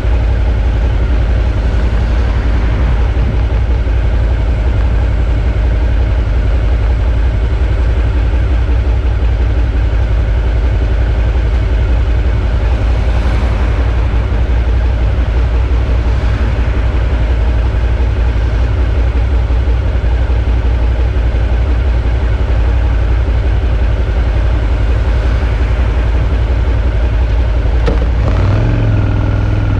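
Suzuki V-Strom 650's V-twin engine running steadily while the motorcycle rides along, with a heavy low rumble throughout. Near the end the engine note changes pitch, as with a shift or a change of throttle.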